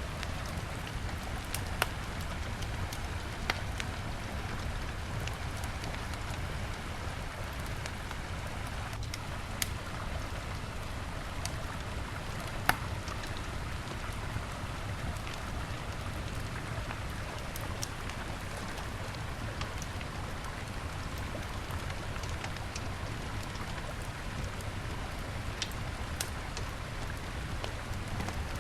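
Wood fire crackling, with scattered sharp pops, a few louder than the rest, over the steady rush of a flowing river.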